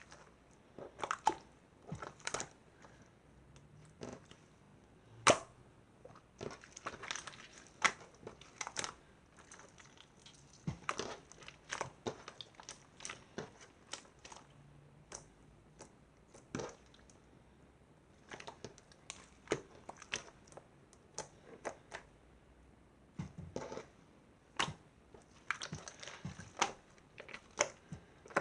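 Slime being squeezed and poked by hand, making irregular sticky clicks and small pops at uneven intervals.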